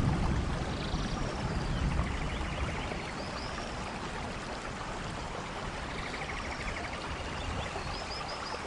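Steady rain in a forest, with a low thunder rumble dying away over the first few seconds. Short high bird chirps and trills come through now and then.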